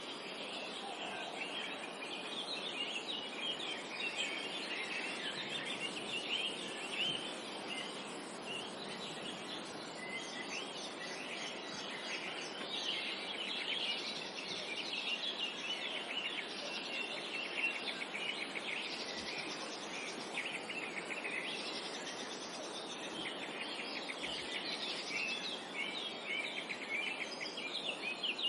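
Forest bird chorus: many small songbirds chirping and singing at once, a dense run of quick high chirps, over a steady background haze of forest noise.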